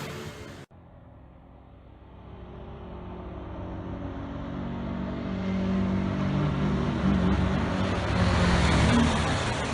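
Motorcycle engine running hard, one clip cutting off abruptly under a second in, then a bike approaching and growing steadily louder, peaking and starting to fade near the end as it passes.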